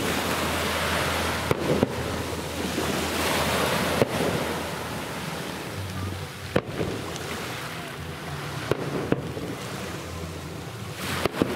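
Aerial firework shells bursting in the distance: about eight sharp bangs at irregular intervals, several coming in close pairs. Under them, a steady rush of surf and wind noise on the microphone.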